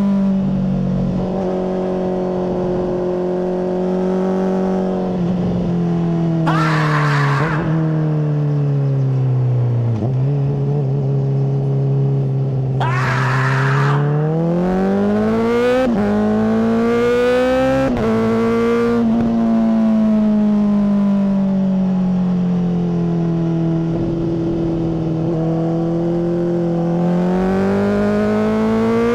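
Honda CBR600RR inline-four with a MIVV full exhaust being ridden: the revs sag slowly, then climb with quick steps as it shifts up, ease off and hold, and rise again near the end. Two brief rushes of noise come through at about 7 s and 13 s.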